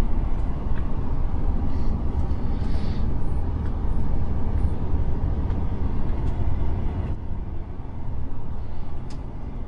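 Truck engine running with a steady low rumble and a few faint ticks.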